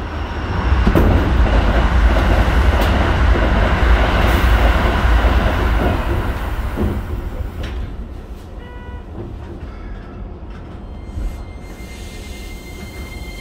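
Keikyu 1500-series electric train heard from inside the car while running: a loud low rumble of wheels on rail for the first several seconds, easing off after about six seconds. A thin high steady tone comes in near the end.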